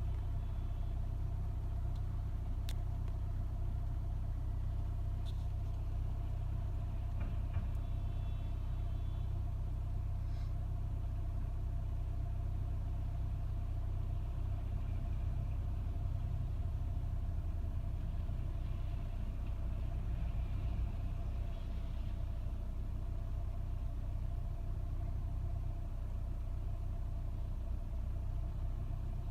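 2007 Nissan Altima engine idling steadily with a low rumble and a steady hum, an idle the owner calls rough at cold start.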